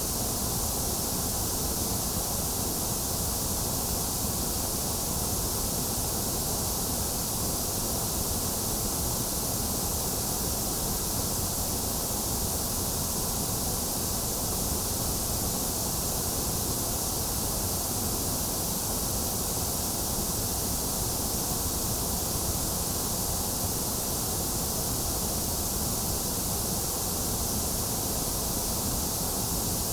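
Steady, unchanging white noise hiss, bright and strong in the high end, with no other sound.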